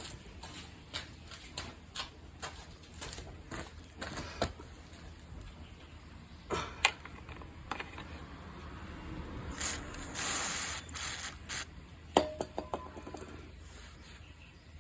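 Hand tools and small metal parts clicking and rattling while the brushcutter's spark plug is worked on. There is a short hiss about ten seconds in and a sharp metallic clink with a brief ring about two seconds later.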